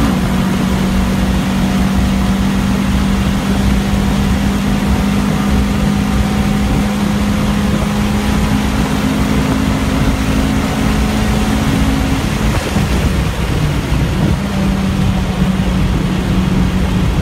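Acura Integra GS-R's 1.8-litre VTEC four-cylinder engine held at high revs in a steady drone, over wind and road noise at more than 100 mph. About twelve seconds in the engine note drops away as the car lifts and brakes for a corner, then comes back at much the same pitch a couple of seconds later.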